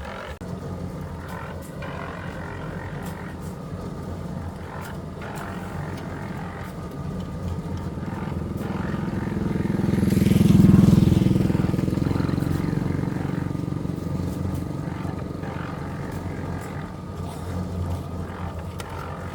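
An engine running steadily, growing louder to its loudest about ten seconds in and then easing off, with a few light knocks.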